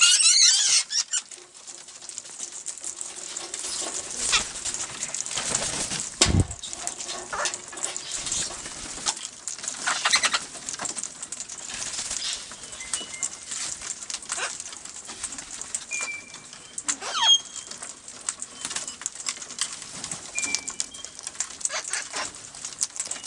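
Wild parrots being hand-fed, flapping their wings and shuffling about, with a loud squawk in the first second and a few short chirps later on. A single dull thump comes about six seconds in.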